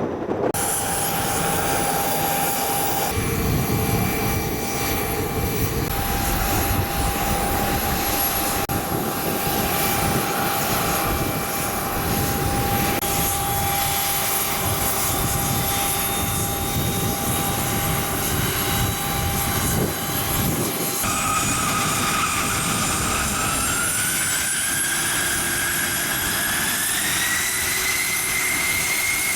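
Aircraft turbine engines running with a steady whine over a rumble. About two-thirds of the way through, a higher whine begins rising in pitch and keeps climbing toward the end.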